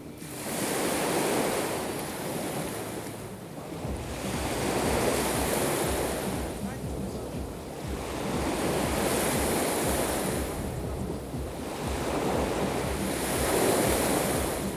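Black Sea waves breaking and washing on the shore, swelling and fading about every four seconds. Wind buffets the microphone with a low rumble.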